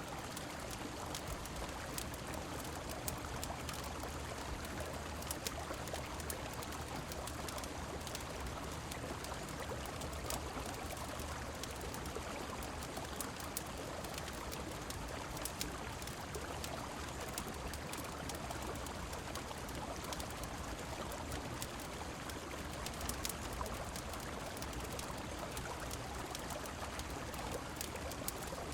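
Soundscape of a river's steady flow and falling rain layered with the crackle of a wood fire: an even rush of water with many small sharp snaps scattered throughout.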